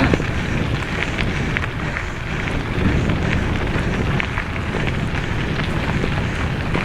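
Mountain bike rolling fast over a dirt trail: wind rushing over the microphone, with scattered clicks and rattles from the tyres and bike over the rough ground.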